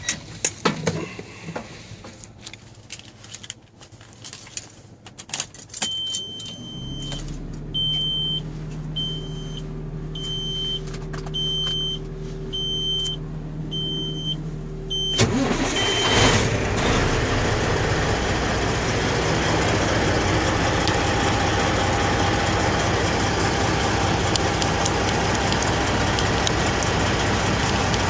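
2002 Kenworth C500 winch tractor being started: after a few clicks, a steady hum comes on with a high warning beep about once a second, then the diesel engine starts at about 15 seconds and runs steadily.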